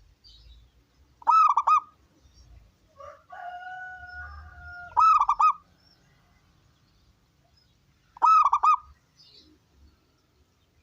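Zebra dove (perkutut) cooing: three short calls about three and a half seconds apart, each a quick run of four rippling notes. Between the first two calls, a fainter steady tone lasts a second or two.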